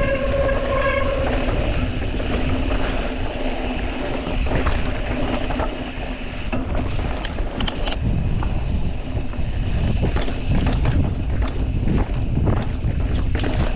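Wind buffeting the microphone and mountain bike tyres rolling over dirt and rock on a descent, with short rattles and knocks from the bike from a few seconds in. A steady high squeal runs under it for the first second and a half, then fades.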